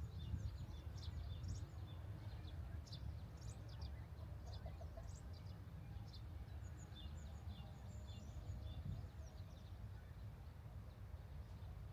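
Small birds chirping, many short high calls in quick succession, over a steady low rumble.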